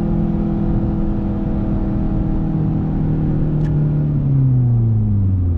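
Renault Sandero RS's 2.0-litre four-cylinder engine heard from inside the cabin, running at steady revs under way. About three seconds in its note falls smoothly over a couple of seconds as the revs drop.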